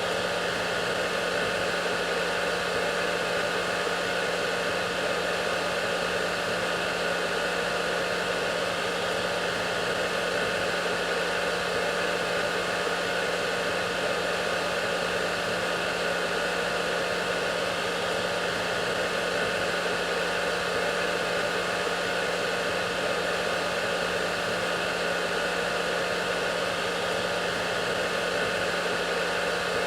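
Hair dryer running continuously: a steady rushing hiss of air over an even motor hum, with no change in speed.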